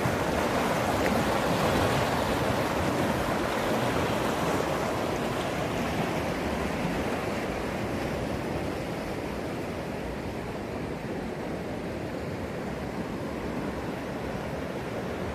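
Swollen East Fork San Gabriel River rushing in flood, a steady wash of water noise that slowly grows fainter and duller.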